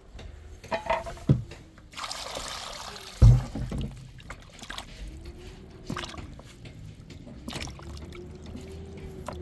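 Liquid being poured for about a second, followed by a heavy thump and a few light knocks.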